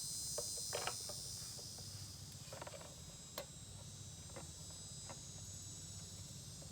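Steady high chirring of insects, typical of crickets, over a low steady hum, with a few light clicks and taps of handling.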